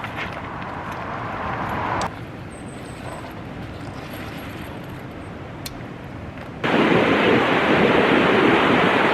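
Outdoor ambience in cut-together clips: a rush that swells over the first two seconds, then a quieter stretch, then from about two-thirds in a loud, steady rush of ocean surf with wind on the microphone.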